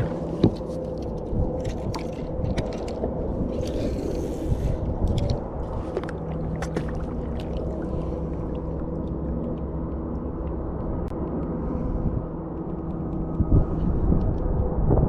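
Steady low rumble of outdoor ambience on the water, with scattered light clicks and knocks in the first half and a brief hiss about four seconds in.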